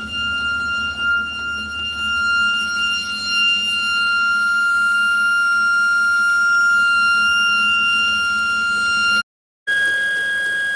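Steady high-pitched whistle from a vacuum leak on a running car engine, with the engine's low hum beneath it. After a brief break near the end, the whistle comes back a little higher in pitch.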